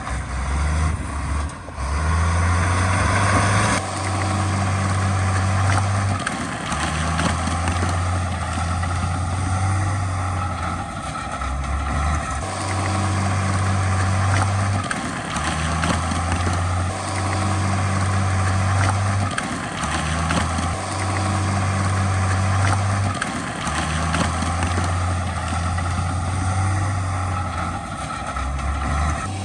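Heavy diesel earthmoving machinery running under load, its low engine note stepping up and down every few seconds over steady mechanical noise.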